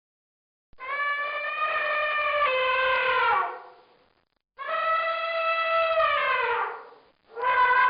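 Elephant trumpeting: three long, brassy calls, each holding a steady pitch and then sliding down as it ends.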